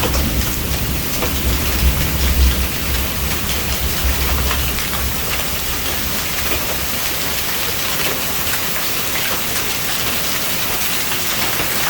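Hail and heavy rain pelting down, with the sharp ticks of individual hailstones striking hard surfaces. A low rumble underneath fades out about five seconds in.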